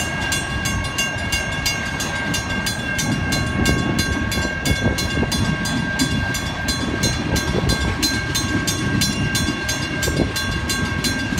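Freight cars rolling past a grade crossing, a steady low rumble of wheels on rail with irregular knocks from the passing trucks. Over it the crossing bell rings in a fast, even rhythm of several strikes a second.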